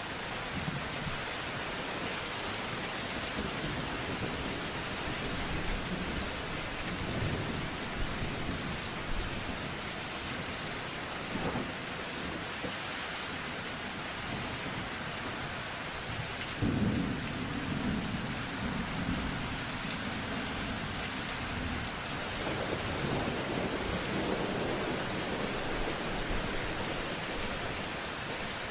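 Steady rain falling, with low rolling thunder. About two-thirds of the way through, a louder thunderclap rumbles on for several seconds.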